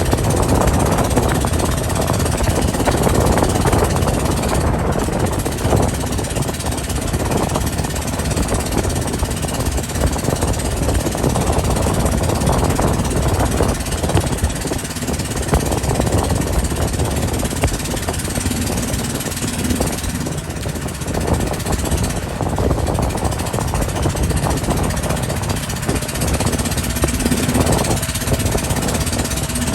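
Motorboat under way: a loud, steady rumble of engine and rushing noise, fluttering rapidly and unevenly.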